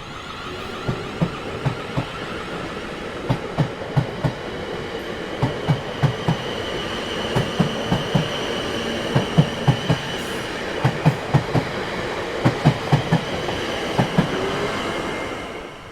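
Train running over the rails with a steady rumble, its wheels clacking over rail joints in repeated clusters of about four knocks, with a faint high wheel squeal in the middle. The sound fades out at the end.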